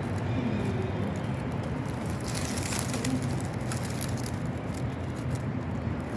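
Dove cooing: a few short, low coos over a steady low background rumble.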